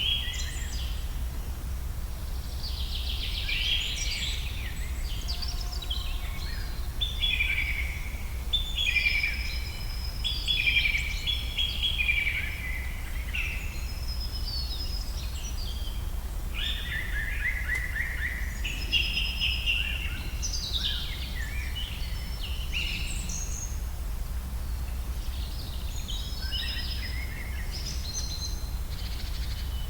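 Several birds singing and calling in a forest, overlapping chirps and short trills throughout, over a steady low rumble.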